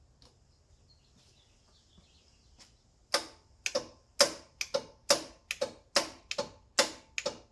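A run of sharp clicks, about two to three a second and some in close pairs, starting about three seconds in after a quiet stretch.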